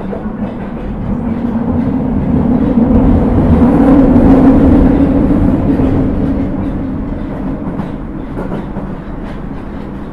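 Osaka Metro 30000 series subway train running, heard from inside the car: a low rumble that swells to its loudest about halfway through and then eases off, with light clicks of wheels over rail joints toward the end.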